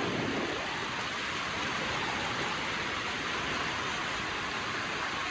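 River running high and fast, water rushing steadily over the edge of a wall.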